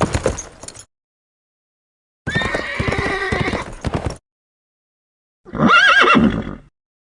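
Horse sound effects: hoof clopping that ends just under a second in, then two separate horse whinnies with silent gaps between them, the second rising and falling in pitch.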